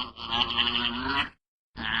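A farm animal calling: a drawn-out call of over a second stops abruptly, and after a short gap another call starts near the end.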